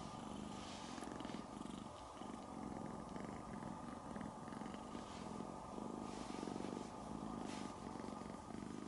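Kitten purring steadily, the purr swelling and fading with each breath about once a second.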